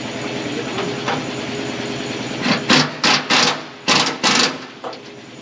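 Tool work on the bolts of a John Deere combine's feederhouse floor: a steady mechanical whir, then about five short, harsh bursts between three and four and a half seconds in.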